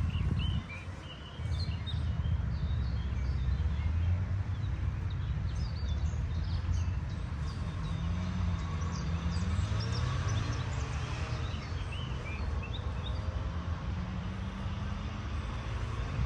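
Birds chirping, many short calls scattered throughout, over a steady low rumble that drops away briefly about a second in.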